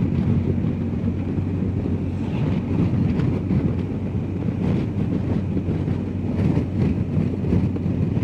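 BMW R1250GS Adventure motorcycle under way at a steady speed: a steady hum from its boxer-twin engine under wind rushing over the microphone.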